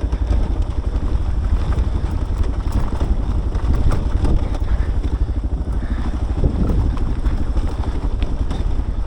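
Adventure motorcycle engine running steadily while riding a muddy trail.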